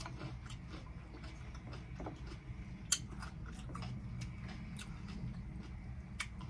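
Close-miked chewing of a cucumber salad with bacon: soft crunches and wet mouth clicks scattered throughout, with two sharper crisp snaps, about three seconds in and near the end. A steady low hum sits underneath.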